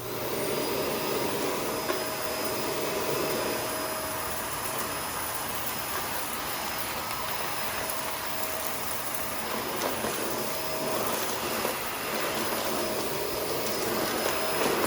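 Shark Rotator NV520 upright vacuum switched on and running steadily with its brush roll off, sucking up fine baking soda from a hard floor, with a high-pitched whine.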